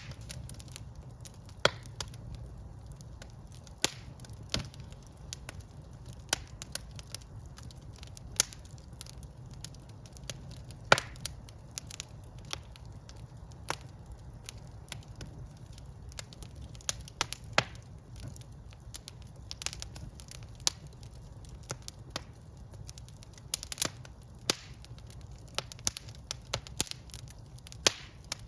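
Wood fire burning in a fireplace: irregular sharp crackles and pops, a few a second, over a low steady rumble of the flames, with one louder snap near the middle.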